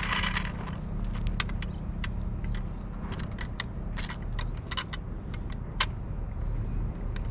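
Light metallic clicks and clinks, a dozen or so at irregular intervals, from the parts of a motorcycle paddock stand being unpacked and handled, over a steady low hum.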